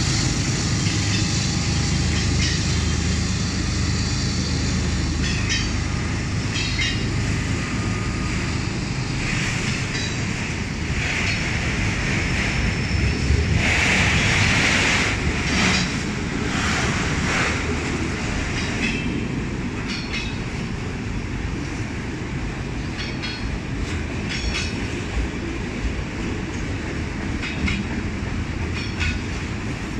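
Freight train of autorack cars rolling past at close range: a steady rumble of steel wheels on rail with repeated clicks as the wheels cross rail joints. About halfway through, the wheels squeal loudly on the rail for several seconds.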